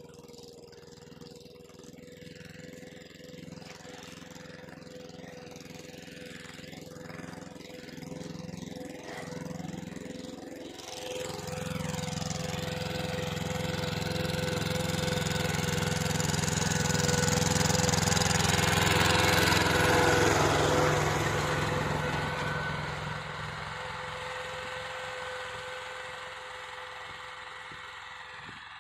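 Tractor engine running steadily, growing louder from about eleven seconds in, loudest around twenty seconds, then fading as it passes and moves away.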